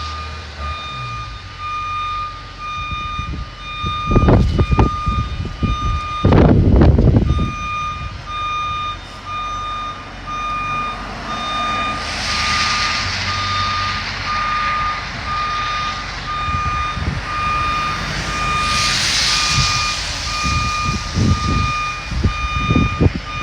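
Backup alarm of a reversing construction vehicle beeping steadily, one pitch repeated on and off. Low rumbling bursts about four to seven seconds in, and two bursts of hiss later on.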